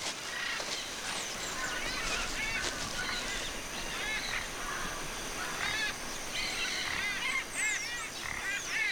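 Birds calling in a wetland, short arched chirps repeated many times over a steady hiss of outdoor ambience.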